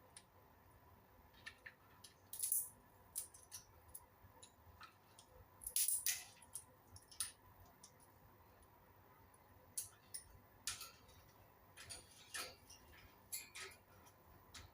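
Indian ringneck parakeet giving faint, scattered short high chirps and clicks, with slightly louder bursts about two and a half and six seconds in.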